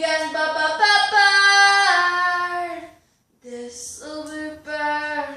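A female voice singing long held notes with no instruments, stopping for a moment about three seconds in, then singing two more notes.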